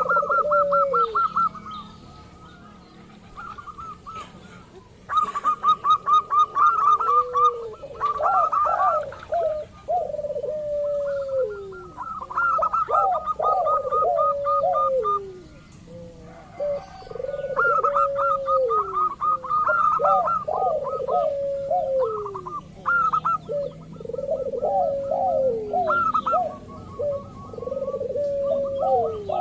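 Local zebra doves (perkutut) cooing in repeated phrases: fast trilled notes higher up over lower coos that slide down in pitch, used as lure song to set other doves calling. The song drops away briefly between about 2 and 5 seconds in.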